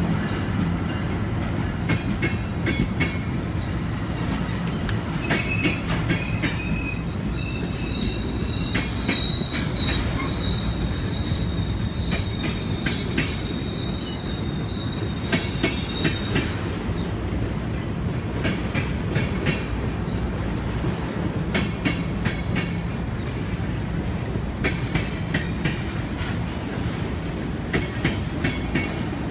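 Double-deck AMT commuter coaches rolling past at close range: a steady low rumble with the wheels clicking over rail joints. About a quarter of the way in, a high, thin wheel squeal sets in and holds for around ten seconds.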